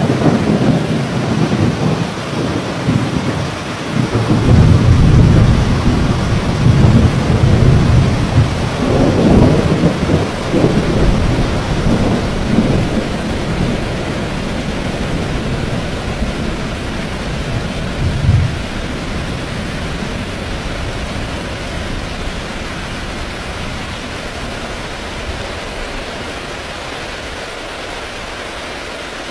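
Heavy rain falling steadily while thunder rolls, a long low rumble swelling about four seconds in and rolling on for several seconds, a short sharp clap a little past halfway, then the thunder dying away under the rain.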